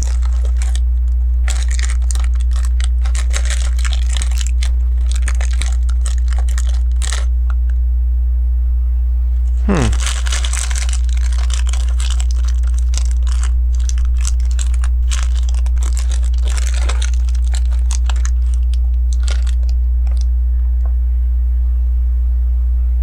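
Small plastic LEGO bricks and plates clicking and rattling as they are sorted through and pressed together, many light clicks at an irregular pace over a steady low hum.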